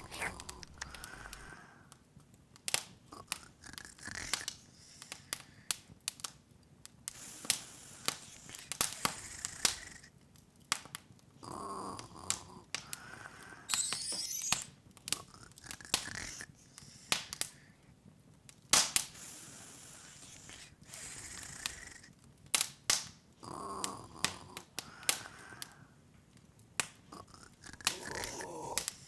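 Open fire crackling, with irregular sharp pops and snaps. A few soft murmuring, snore-like sounds come and go, and a brief high glittering sweep is heard about halfway through.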